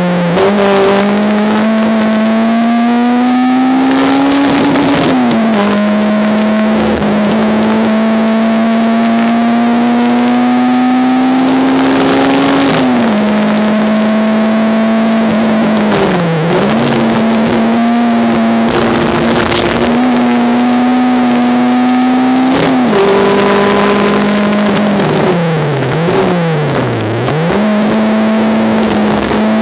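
Honda Civic race car's engine heard onboard at speed, its note climbing slowly under power and dropping sharply at gear changes about 5 and 13 seconds in. Later come several quick dips and recoveries in pitch near the middle and toward the end, as the car slows for corners and changes down.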